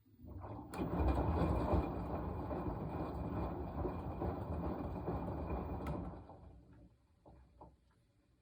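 Washing machine drum turning for about six seconds, a low rumbling run that comes up within the first second and then dies away and stops. A few faint clicks follow near the end.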